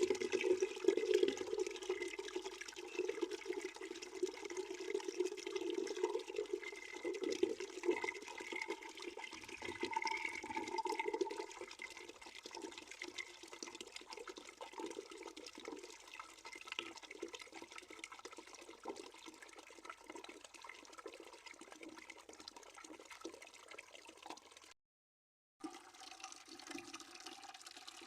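Water running from a tap into a bucket, a steady splashing that gets quieter about twelve seconds in. The sound cuts out completely for under a second near the end.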